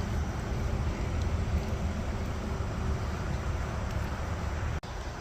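Steady rushing of a high, fast-flowing creek, with wind rumbling on the microphone. The sound breaks off briefly near the end.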